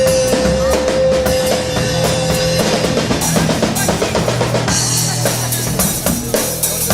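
Band music led by a drum kit, with bass drum and snare strokes over a bass line. A long held note sounds above it and stops about three seconds in.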